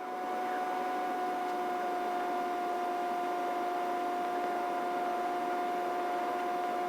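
Steady helicopter cabin noise heard over the aircraft intercom: a constant high whine over an even hiss, fading in over the first half second.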